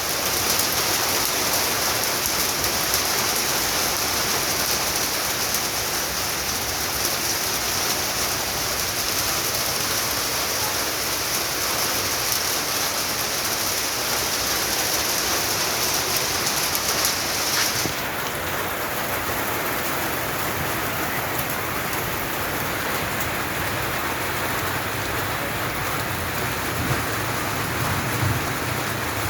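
Heavy rain pouring down steadily in an even hiss, whose higher part falls away about two-thirds of the way through. A low rumble comes in near the end.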